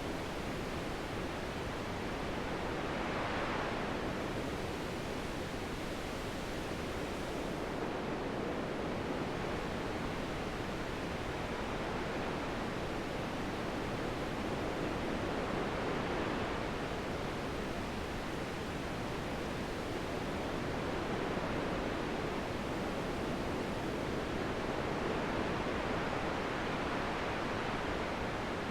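Steady wind, a continuous rushing that swells and eases gently now and then.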